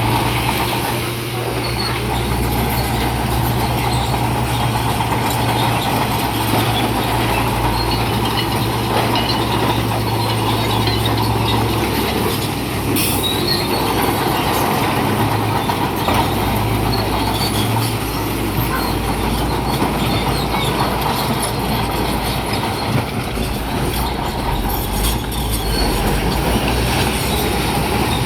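Bulldozer at work: its diesel engine running steadily, with the metallic squeal and clatter of its steel crawler tracks.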